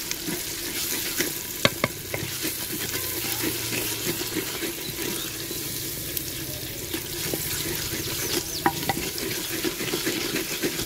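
Spiced onion-tomato masala sizzling in oil in a clay handi while a wooden ladle stirs and scrapes through it; it is being fried down (bhuna) before water is added. A few sharp knocks cut through about two seconds in and again near nine seconds.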